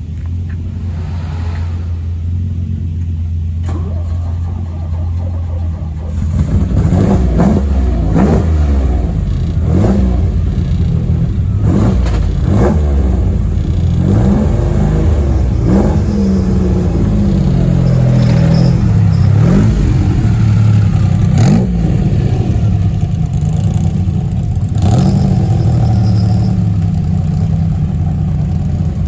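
Alpine A310 engine running at a steady low idle, then from about six seconds in revving repeatedly, its pitch rising and falling several times before settling to a steadier note near the end.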